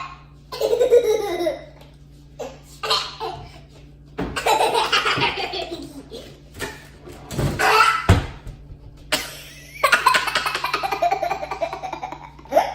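People laughing in repeated bursts, several bouts of hearty laughter with short pauses between them.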